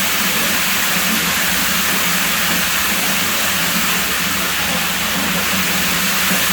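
Water at a pool villa running steadily: a loud, constant rushing hiss with a steady low hum underneath.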